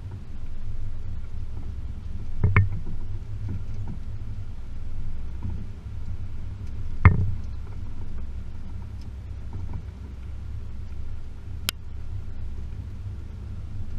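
Range Rover P38 with the 4.0 V8 driving along a rough off-road lane: a steady low rumble, broken by two sharp knocks about two and a half and seven seconds in, and a short sharp click near the end.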